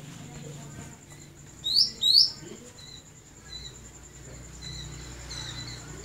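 Small caged songbird chirping: two loud, sharp rising chirps close together about two seconds in, followed by several softer short chirps.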